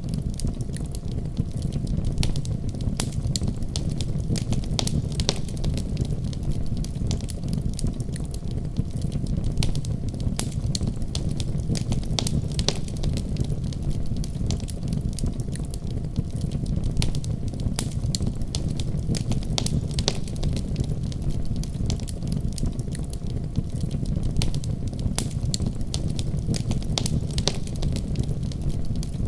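Wood fire burning in a fireplace: a steady low rumble of flames with frequent irregular crackles and pops of burning logs.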